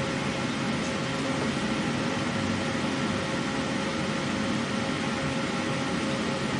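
Emco Turn 220 CNC lathe running steadily: an even mechanical hum with a faint constant whine on top.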